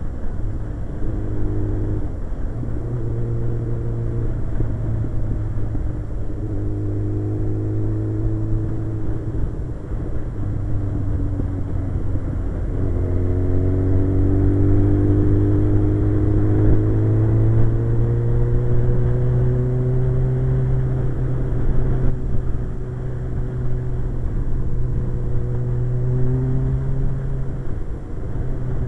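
Suzuki GSX-R 1100 inline-four motorcycle engine running while riding. Its pitch shifts in steps through the first half, then climbs steadily for several seconds as the bike accelerates.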